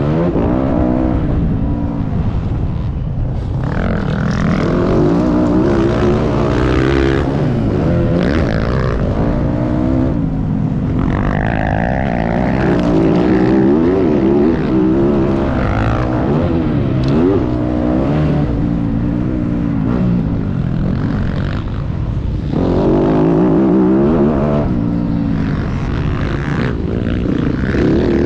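Motocross dirt bike engine revving up and falling back again and again, pitch climbing and dropping with throttle and gear changes as it is ridden around a track.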